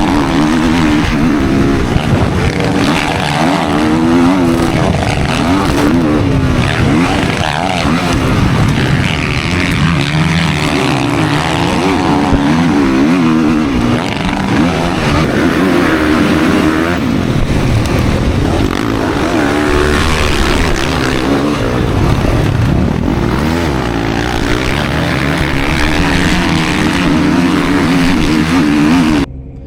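Motocross dirt bike engines racing, revving up and down continuously, the pitch rising and falling with throttle and gear changes. The sound cuts off suddenly just before the end.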